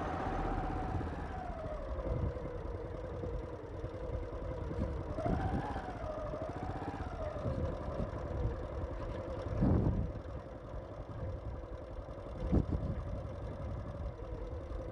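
Motorcycle engine running while riding, its pitch rising and falling with the throttle, over a steady low rumble of wind. There are a couple of sudden knocks, about ten and twelve and a half seconds in.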